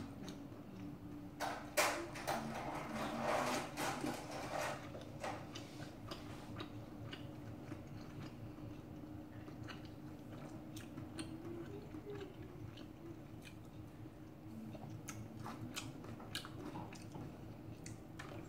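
Close-up crunching and chewing of stir-fried pork cartilage (odolppyeo) with rice, crisp crunches that are dense at first and more scattered later.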